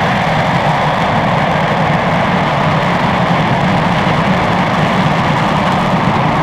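RS-25 liquid-hydrogen/liquid-oxygen rocket engine firing steadily during a hot-fire test, a loud continuous rushing noise with no change in level.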